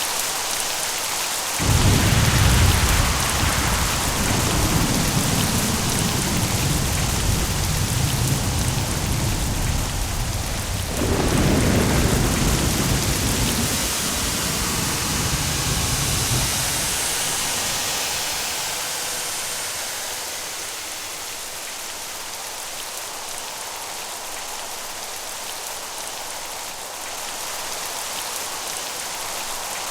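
Steady heavy rain with a thunderclap about two seconds in, its deep rumble rolling on, swelling again a second time near the middle and dying away after that while the rain carries on.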